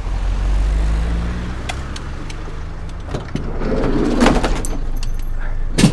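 A car engine running with a steady low hum, then a rustling clatter and a few sharp knocks, the loudest a thump near the end.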